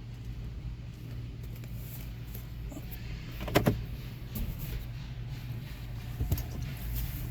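Car running slowly, heard from inside, a steady low hum, with a sharp click about three and a half seconds in and a lighter click near the end.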